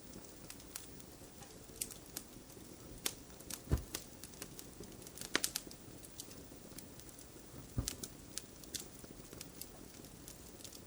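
Wood fire crackling: irregular sharp snaps over a low hiss, with a couple of deeper pops.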